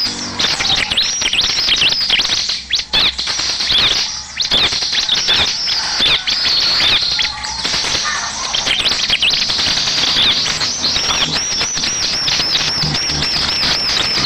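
Bar-winged prinia (ciblek) singing a dense run of high chirping and trilling notes. Near the end it turns to a rapid series of repeated looping notes, about four a second. This is a lure song played to provoke a kept ciblek into answering.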